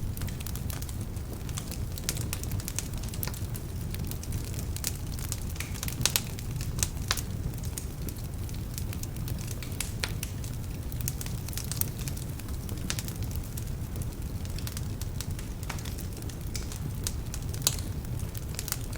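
Wood fire burning in a fireplace: a steady low rumble of flames with frequent sharp crackles and pops, a few louder snaps along the way. The logs are somewhat damp, which brings out the crackling.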